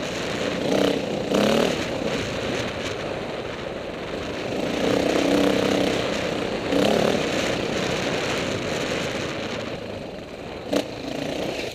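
KTM 450 dirt bike's single-cylinder four-stroke engine running under way, revving up and easing off several times as it is ridden, with a sharp knock near the end.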